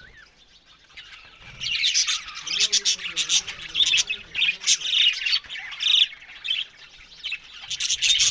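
A flock of budgerigars (budgies) chattering and squawking together, many short overlapping calls. It starts fairly quiet, then breaks into busy chatter after about a second and a half, easing briefly near the end before picking up again.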